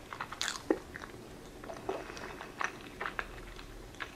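A person chewing a mouthful of sushi roll with the mouth closed: small mouth clicks and smacks at an uneven pace, the sharpest about half a second in.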